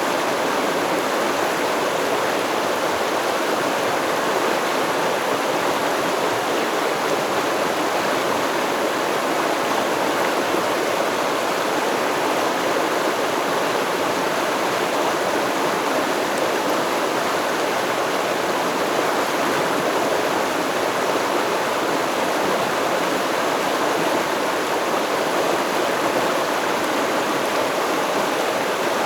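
Water of a stream flowing and babbling over rocks, a steady rushing wash.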